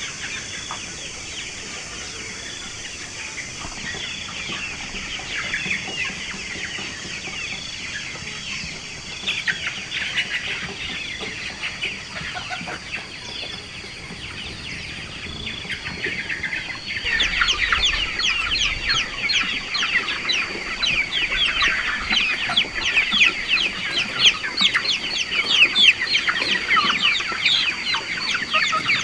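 A large flock of chickens calling and clucking, many overlapping short calls. About two-thirds of the way through the calling becomes much denser and louder, and a thin steady high tone joins it.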